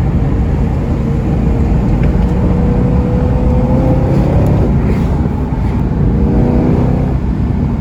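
Car engine pulling under acceleration while driving, its pitch rising steadily for about four seconds, then climbing again after a brief dip near the end, over heavy road rumble.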